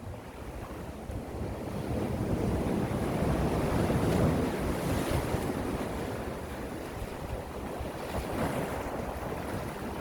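Gentle sea waves washing onto the shore. One swell builds to a peak about four seconds in and then recedes, and a smaller one follows near the end.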